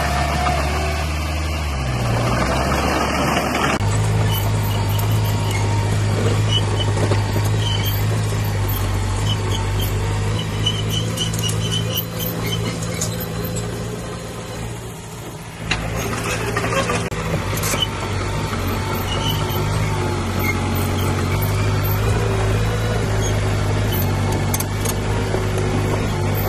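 Diesel engine of heavy earthmoving machinery running with a steady low hum, changing abruptly about four seconds in and again around the middle, with a few faint squeaks and clinks over it.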